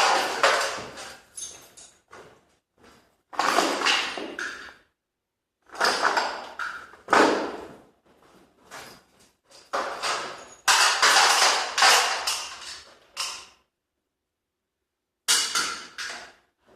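Door hardware clattering and knocking in repeated bursts, each a second or two long, with silent gaps between.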